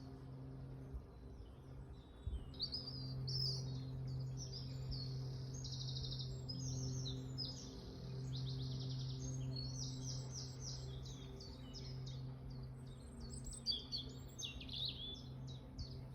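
Songbirds singing outdoors in spring, with a busy run of varied phrases and fast trills starting about two seconds in. A steady low hum sits underneath throughout.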